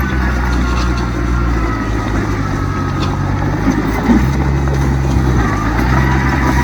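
Heavy diesel engine of earthmoving machinery running steadily, its pitch stepping up and down a few times as the revs change.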